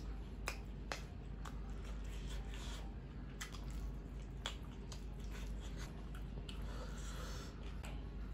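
Close-miked eating: a person chewing a mouthful of prawn fry, with sharp wet lip smacks and mouth clicks every half second to a second, and soft rustles of food being handled.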